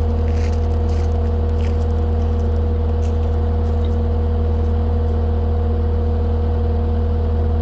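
Skid steer engine running at a steady speed, a constant low hum with a steady whine above it. A few faint clicks and knocks come in the first few seconds.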